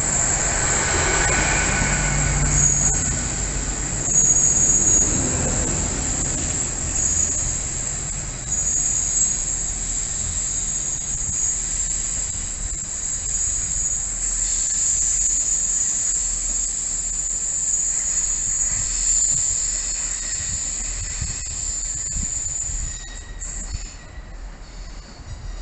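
Great Western Railway trains moving through the station: a low rumble as a train runs past the platform in the first few seconds, with a high wheel squeal from the rails coming and going. The sound drops noticeably near the end.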